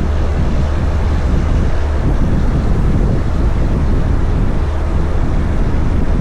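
Heavy diesel truck running steadily while hauling a heavy load, a constant deep rumble with road and wind noise.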